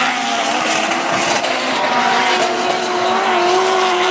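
Drift car engine held at high revs with tyres squealing through a slide. The engine note holds nearly steady, rising a little about two seconds in and sagging slightly near the end.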